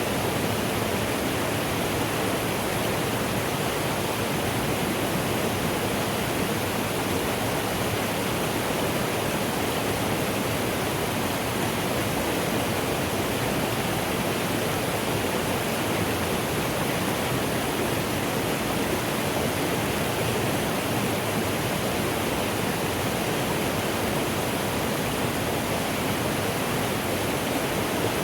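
Mountain stream rushing over rocks, a steady full-bodied water noise with no breaks or changes.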